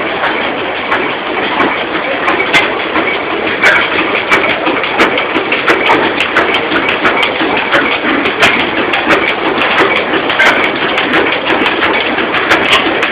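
Belt-driven machine shop machinery running: a steady mechanical clatter with frequent sharp clicks and ticks.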